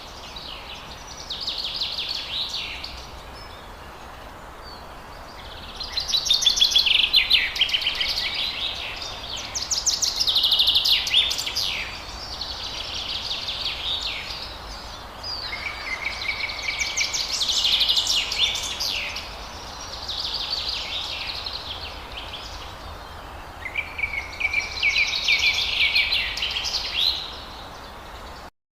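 Forest birds singing in repeated bouts of fast trills and chirps, a fresh phrase every few seconds, over a steady background hiss.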